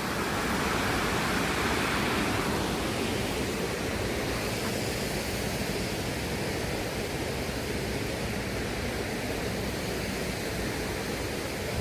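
Waterfall: a steady rush of falling water, a little louder for the first couple of seconds.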